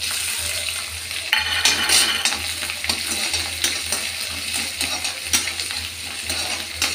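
Chopped ginger and garlic start sizzling the moment they drop into hot oil in a kadhai. A slotted metal spoon stirs them, scraping and clicking against the pan over a steady frying hiss.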